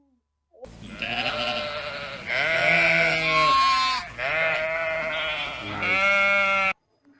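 A sheep or goat-type farm animal bleating: about four long, pitched calls in a row, starting just under a second in and cutting off suddenly near the end.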